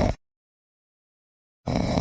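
A loud sound cuts off just after the start, then dead silence for about a second and a half, and a loud sound starts again near the end: a silent gap at an edit between two clips.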